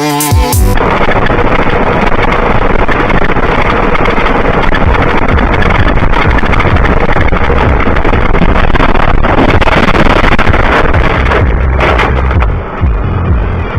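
A vehicle moving at speed: steady engine rumble with rushing wind noise, dipping briefly near the end.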